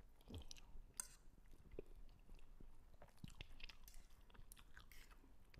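Faint close-up chewing of a mouthful of fried instant noodles, with scattered small clicks and ticks.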